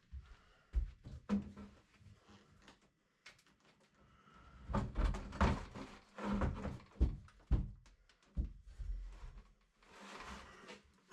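Irregular knocks, thumps and clatters of hard objects, busiest and loudest in the middle of the stretch.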